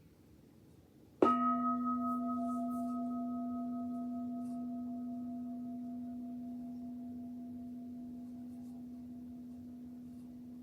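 Buddhist meditation bell (a bowl-type bell) struck once about a second in, its low hum and a few higher overtones ringing on and slowly fading, sounded to begin a period of silent meditation.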